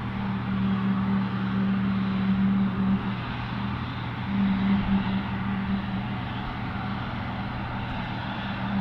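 Aircraft engines running, heard as a steady low drone with a second low hum that swells and fades a few times, over a rushing noise.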